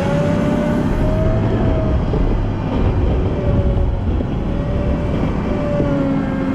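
Volvo L90F wheel loader's diesel engine running under load, with a whine that rises and falls in pitch as the revs change.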